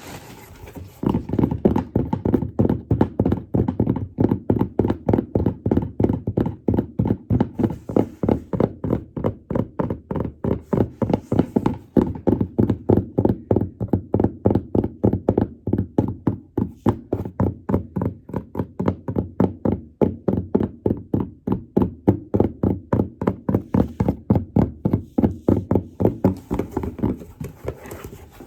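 Rapid, even thumping, about three or four knocks a second, starting about a second in and stopping near the end.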